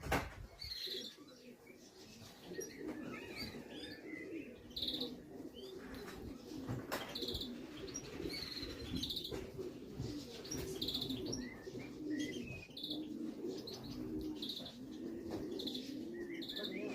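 Racing pigeons cooing continuously in a loft, low wavering coos one after another. Small birds chirp in short high bursts over them, with a couple of sharp clicks, one at the start and one about seven seconds in.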